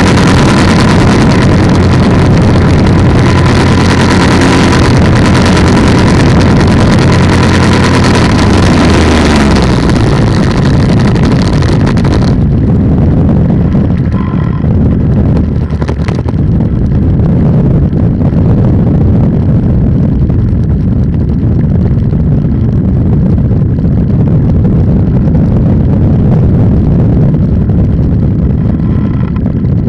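Polini 190 single-cylinder two-stroke engine of an ultralight trike, heard loud from on board, running at a steady high power setting; about nine seconds in its pitch drops as the throttle comes back, and it runs at lower power for the rest.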